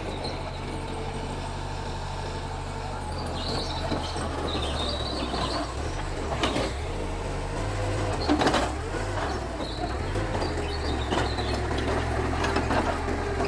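Mitsubishi bulldozer's diesel engine running steadily under work, its pitch shifting briefly about two-thirds of the way through, with a few sharp metallic clanks, the loudest about six and eight seconds in.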